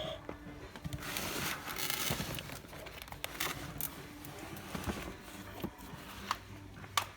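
Irregular crinkling and rustling handling noise, with a few sharp clicks near the end.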